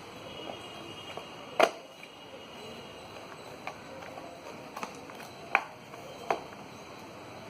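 Taps and knocks of a phone box and its packaging being handled, a few sharp ones standing out: the loudest about one and a half seconds in, then two close together near the end.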